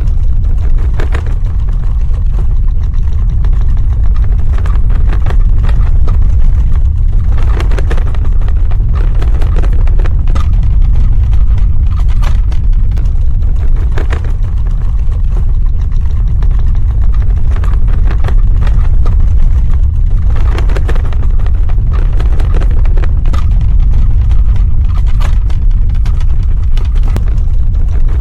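Earthquake sound effect: a loud, continuous deep rumble, with scattered crackling and rattling like shaken debris.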